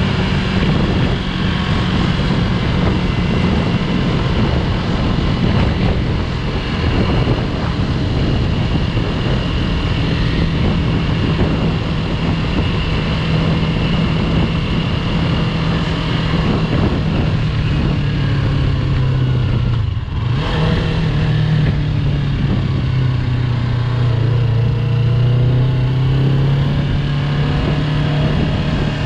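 Yamaha YZF-R3's 321 cc parallel-twin engine running steadily while riding, over a constant rush of noise. About two-thirds of the way through the engine note drops out briefly, then returns lower and climbs again as the bike pulls away.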